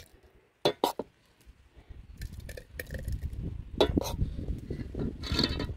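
Kitchenware clinking and knocking: two sharp clinks about a second in, then repeated clinks of utensils against pots and dishes over a low rumbling noise from about two seconds in.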